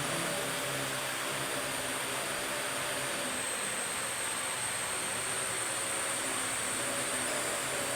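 Parrot AR.Drone 2.0 quadcopter in flight: its four electric motors and propellers give a steady whirring hiss with a thin high whine.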